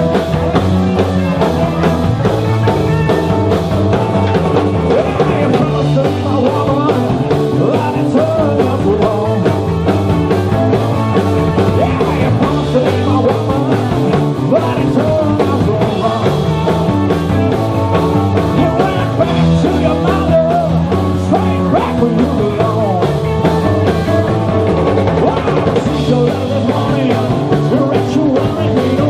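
A live blues-rock band playing a song, full band at a steady loud level.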